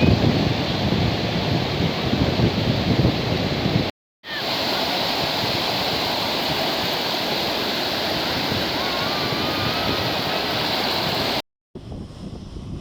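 Sea surf washing against the shore, a steady rushing noise with wind buffeting the microphone. It cuts out briefly about four seconds in and again near the end.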